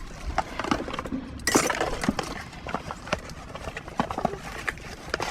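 Rummaging through dumpster debris: irregular clinks and knocks of hard metal parts being handled and shifted, with a louder rustling scrape about a second and a half in.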